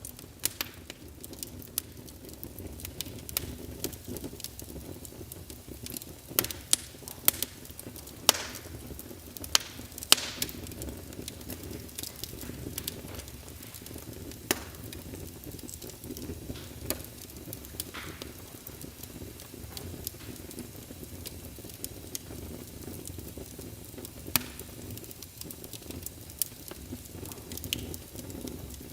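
Log fire burning in a fireplace: a steady low rumble of flames with sharp crackles and pops scattered throughout, the loudest pops bunched between about six and ten seconds in.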